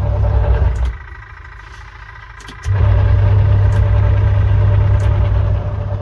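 Haier fully automatic top-load washing machine running with a light, steady motor hum. The hum cuts out about a second in and starts again, louder, nearly two seconds later as the wash motor pauses and restarts.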